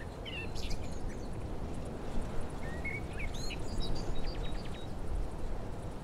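Outdoor ambience: small birds chirping in short, quick phrases, twice, over a steady low rumble.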